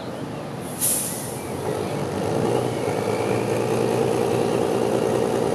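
Competition trial truck's engine working under load, growing louder and steadier from about two seconds in, with a short sharp hiss about a second in.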